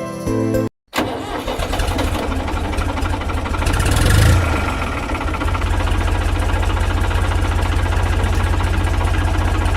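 An engine starting up and running with a fast, even throb, swelling louder briefly about three seconds in before settling back to a steady run.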